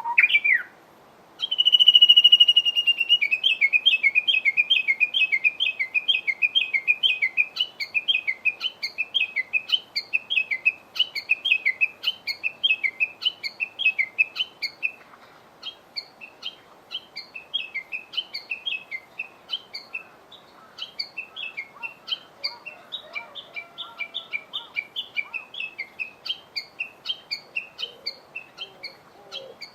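A songbird calling: a short rising note, then a long steady high whistle, which breaks into a long rapid series of repeated high notes, about three to four a second, going on and getting fainter partway through.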